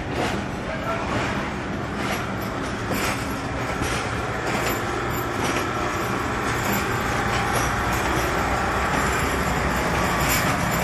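Passenger train rolling out of a station at low speed, heard from aboard: a steady rumble with wheel clacks over the rail joints, growing slightly louder as it gathers speed.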